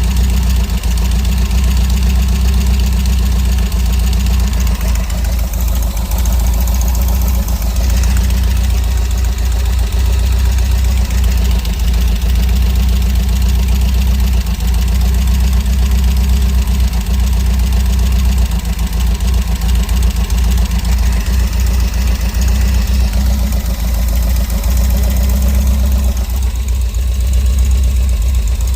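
UAZ Bukhanka van's engine running steadily at idle.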